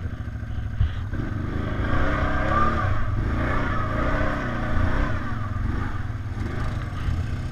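ATV engine running over rough ground, its pitch rising and falling repeatedly as the throttle changes, over a heavy low rumble.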